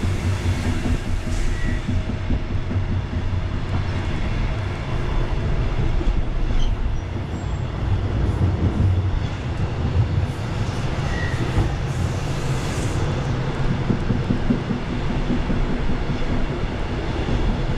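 Rola rolling-highway train carrying trucks, running along the line: a steady low rumble of wheels on rails.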